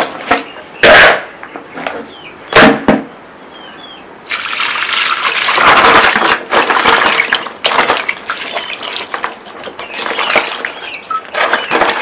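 Two loud knocks, then from about four seconds in water poured into a bowl and sloshing as crabs are washed in it by hand.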